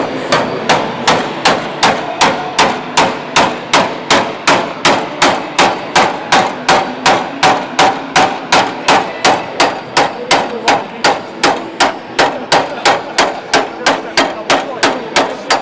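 Hammer driving a chisel through the steel of a Triumph TR7 body shell, cutting away an old panel: a steady run of sharp metal strikes, about three a second, without a break.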